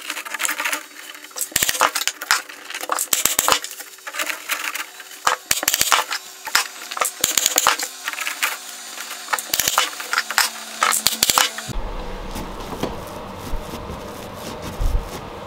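Hand work on wood: a busy run of sharp clicks, knocks and scraping. About twelve seconds in it gives way to a steadier power-tool noise with a low rumble.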